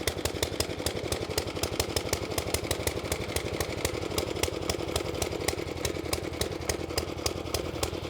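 1911 LMC motorcycle engine running steadily at idle, with a rapid, even beat of firing pulses.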